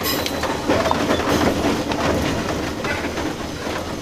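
Running sound heard inside the car of a JR East 201 series electric commuter train: a steady rumble with the wheels clicking over rail joints.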